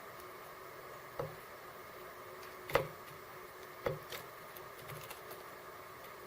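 Small birds pecking and landing at a seed feeder: four or so separate taps and knocks, the loudest a little under three seconds in, over a faint steady hum.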